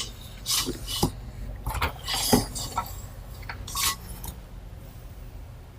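Loose metal parts from a garage door opener kit, such as brackets and hardware, clinking and rattling as they are picked up and handled. The knocks come in an irregular string and thin out after about four seconds.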